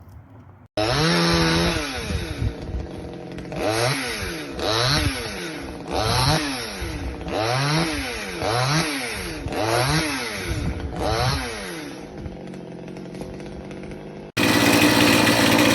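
PROYAMA 62cc two-stroke chainsaw engine starting up suddenly and being revved again and again, its pitch climbing and falling about eight times, roughly once a second. It then drops back to a lower, steadier run. Near the end a louder, steady sound cuts in abruptly.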